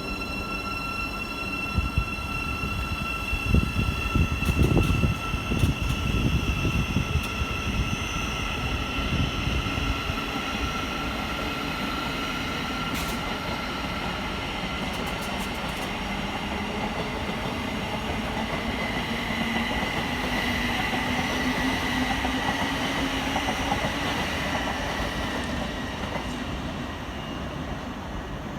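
A train running through the station with a steady high-pitched whine. Heavier rumbling and knocks come from the wheels a few seconds in, and a few sharp clicks follow later.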